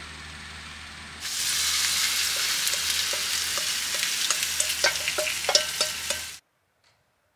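Gas burner flame hissing steadily under an empty frying pan, then about a second in a loud sizzle as chopped napa cabbage is tipped from a metal bowl into the hot pan. A run of light clinks follows as the bowl is scraped against the pan, and the sound cuts off sharply near the end.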